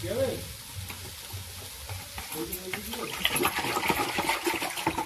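Chopped banana stem sizzling as it fries in a black iron kadai. Voices and short clinks come in the background over the second half.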